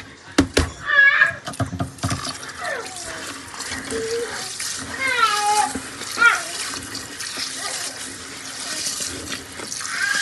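Kitchen tap running into a sink while biryani rice is washed, with a few clatters and knocks in the first two seconds. Voices are heard briefly in the background.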